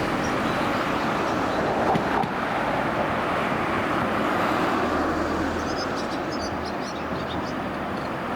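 Steady rushing vehicle noise, the sound of road traffic, with no siren.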